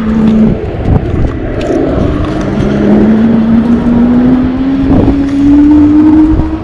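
Electric motor of an Engwe Engine Pro 750-watt e-bike whining while riding, the whine rising slowly in pitch as the bike gathers speed, over a low rumble of wind and road.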